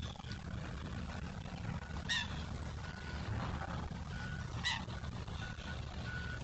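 Two short, loud bird calls about two and a half seconds apart, over a steady low rumble.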